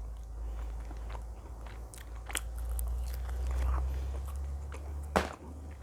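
A person biting and chewing pizza, with scattered wet mouth clicks and one sharp click about five seconds in, over a steady low hum.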